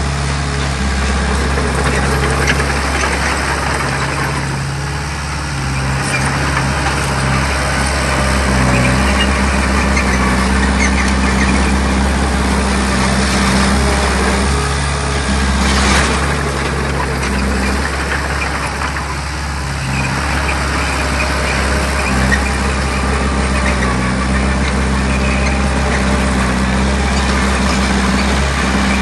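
Heavy diesel engine of earthmoving machinery running steadily, its pitch rising and falling slightly, over continuous clatter and scraping, with a sharp clank about sixteen seconds in.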